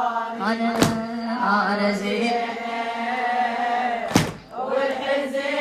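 A woman chanting a Shia elegy (latmiya) in Arabic, holding long wavering notes, with two sharp thumps, one about a second in and another near four seconds in.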